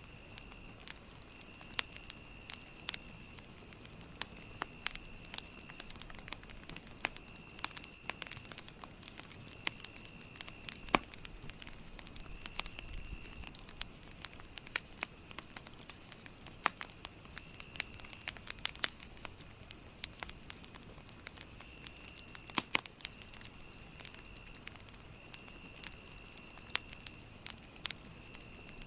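Campfire crackling with irregular sharp pops over a steady insect chorus. There is a high even trill, a rapid chirp of about four pulses a second, and a lower buzz that comes and goes every second or so.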